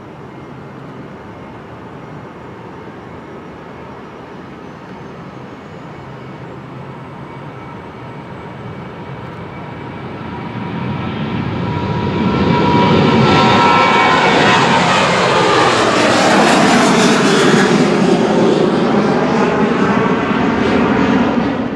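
A fixed-wing aircraft's engines growing steadily louder, with a high whine showing about ten seconds in, then a loud steady roar from about twelve seconds on as the plane passes close.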